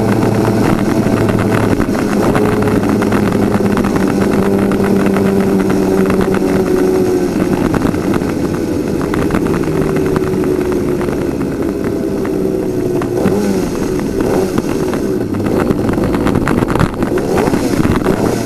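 Twin-cylinder 250cc two-stroke superkart engine running loud and steady, its note drifting slowly lower, then sliding up and down in pitch about two-thirds of the way through.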